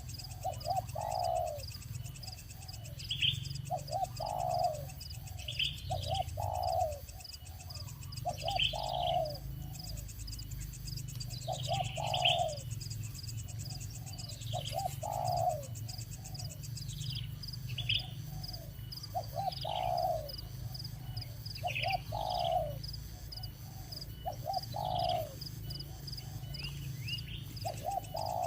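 Birds calling: a low, stuttering call repeated about every two and a half seconds, with short, higher, falling chirps in between, over a steady high trill like insects.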